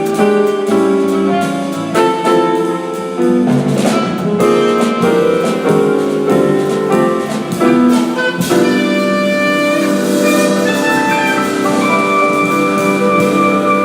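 Live jazz quartet of alto saxophone, piano, bass and drum kit playing, with drum hits under a busy line for the first eight seconds or so, then settling into long held notes as the tune comes to its end.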